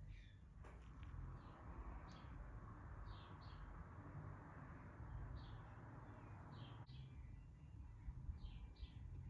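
Faint bird chirps: short, falling notes, often in pairs, repeating every second or so over a low background rumble.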